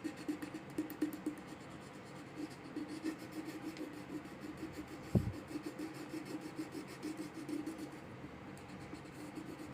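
Rapid up-and-down colouring strokes scratching on a book page, several a second, as a picture is filled in with short vertical lines. A single dull thump comes about five seconds in.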